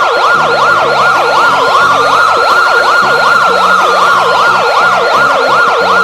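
Electronic emergency-vehicle siren sweeping rapidly up and down, about three times a second, with a second, slower wail rising and falling once over it.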